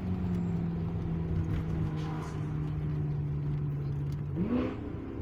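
BMW M6's twin-turbo V8 heard from inside the cabin, its note holding steady and slowly sagging in pitch, then climbing sharply about four seconds in as the revs rise under a pull.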